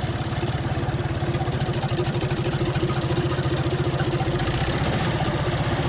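Diesel tractor engine running steadily at an even pace, with no change in revs.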